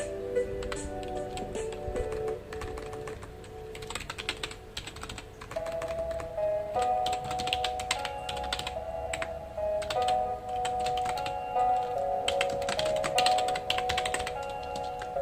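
Computer keyboard typing in quick bursts of keystrokes with short pauses between them, over soft background music of long held notes.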